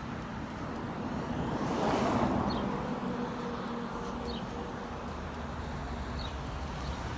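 Road traffic: a car passes, its noise swelling to a peak about two seconds in and then fading, over a steady low engine hum.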